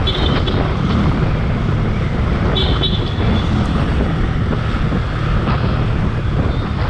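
Wind buffeting the camera's microphone while riding a motorcycle, with the bike's engine running underneath as a steady, loud rush.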